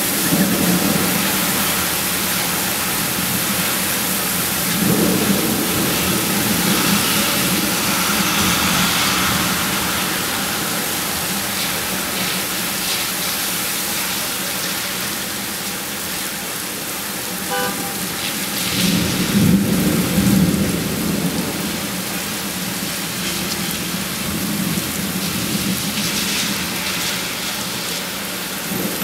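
Heavy rain pouring onto a city street in a severe storm, a steady loud wash of noise, with two louder low swells about five seconds in and again around nineteen to twenty seconds.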